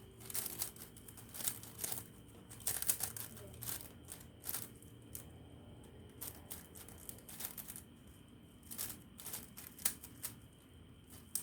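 5x5 puzzle cube being turned by hand: irregular runs of quick plastic clicks and clacks as the layers snap round, with short pauses between bursts.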